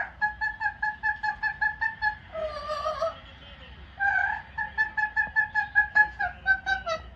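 Yellow-naped amazon parrot calling: two runs of quick repeated notes on one pitch, about six a second, broken by a longer falling note. The last few notes drop in pitch.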